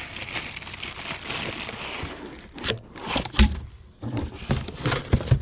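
Packaging crinkling and rustling as a box is unpacked, then several dull knocks and thumps from about two and a half seconds in as things are handled.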